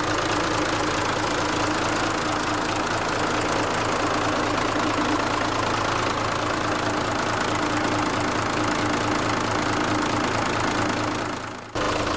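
Mitsubishi Fuso Fighter truck's 8.2-litre diesel engine idling steadily. The sound fades away briefly and cuts back in near the end.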